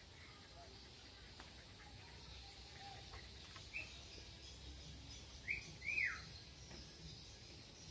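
A small bird chirping three times over faint outdoor background noise. The chirps are short, high and whistled, and the last and loudest falls in pitch.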